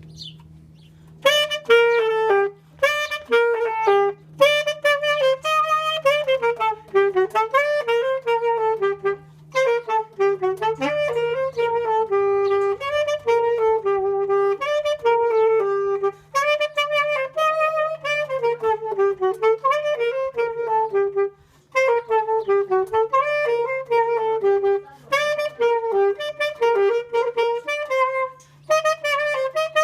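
Solo saxophone playing a melody in phrases of a few seconds, separated by short pauses.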